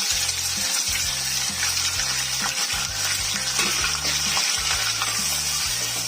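Chopped onions sizzling in hot oil with whole spices in a pan, with short scrapes and clicks of a spatula as they are stirred.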